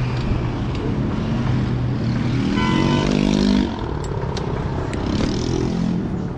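Moped engine running on the road. About two and a half seconds in, its note climbs for about a second, then drops off.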